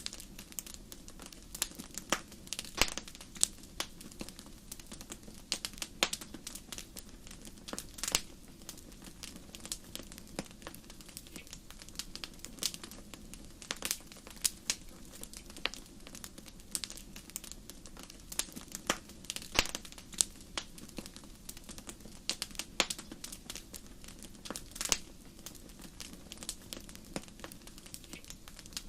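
Wood fire in a fireplace crackling, with many irregular sharp pops and snaps over a low steady rush.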